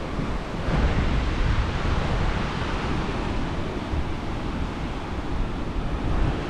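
Sea surf washing onto the shore, with wind buffeting the microphone in a heavy rumble; the surge grows louder about a second in.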